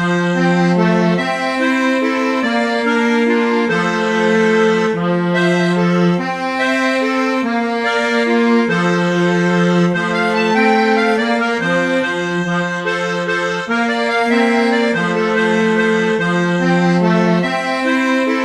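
A waltz played on bandoneon and cello, with reedy held chords and a low line of sustained notes.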